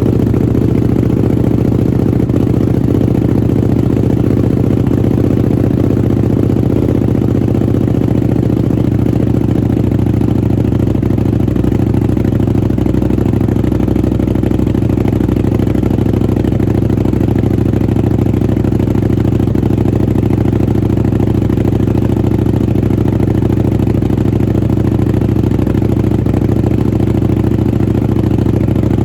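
Buell 1125R's 1125 cc V-twin idling steadily through a Jardine RT-5 aftermarket exhaust, just after a start.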